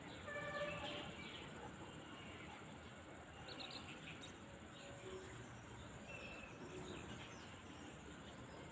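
Rural field ambience: a steady high insect drone, with small birds chirping now and then, the loudest cluster about half a second in.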